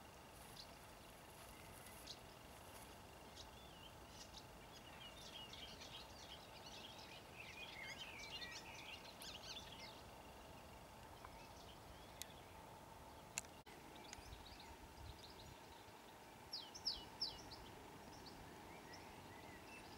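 Quiet open-air ambience with small wild birds singing: a run of rapid twittering about five to ten seconds in, then a few short, sharp chirps near the end. There is a single click about two-thirds of the way through.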